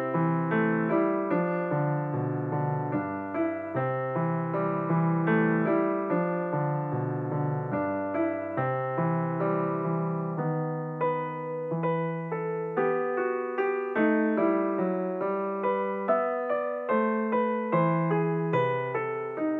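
Background piano music, a steady stream of gently struck notes.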